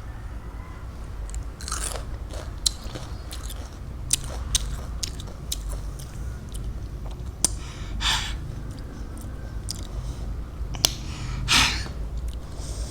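Bites and chewing of raw fruit: sharp crisp clicks scattered throughout and three longer crunches, one near the start, one about eight seconds in and one near the end.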